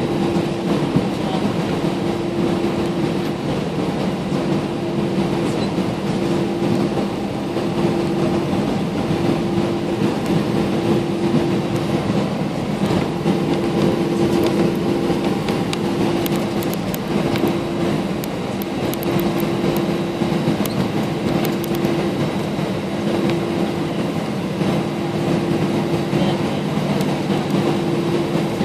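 Airbus A320 cabin noise during taxi: the jet engines run at idle in a steady hum, with a tone that pulses in and out about once a second over a broad rushing noise.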